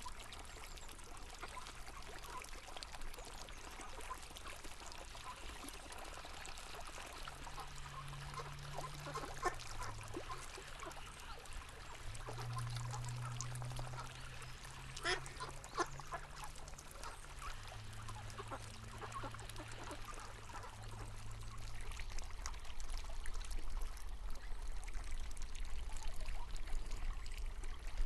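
River water flowing and trickling, with ducks quacking now and then. A low steady hum runs through the middle, and the sound grows louder near the end.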